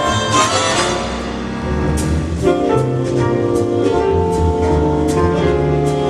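Big band playing live jazz: a brass section holding chords over drum kit and bass, with cymbal and drum hits marking the beat.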